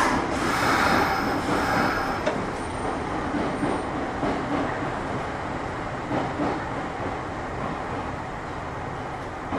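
Electric train rail noise: a steady rumble of wheels on track that slowly gets quieter, with a faint thin high squeal about three seconds in.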